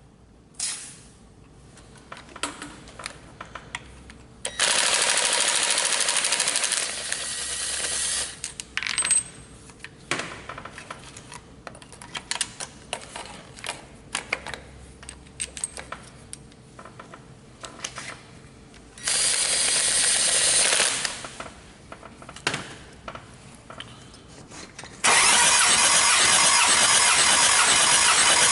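Kia D4CB 2.5-litre diesel engine cranked on its starter during a compression test, in three loud bursts: one of about four seconds some four seconds in, a shorter one past the middle, and a last one near the end. Scattered clicks and knocks come between them.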